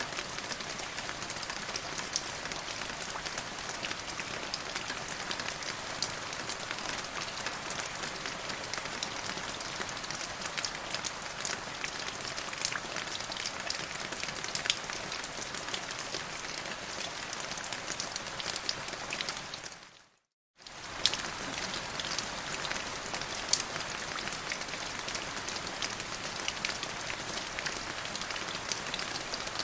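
Steady rain falling, an even hiss with many single drops ticking through it. About two-thirds of the way through it fades out to silence for under a second, then comes straight back.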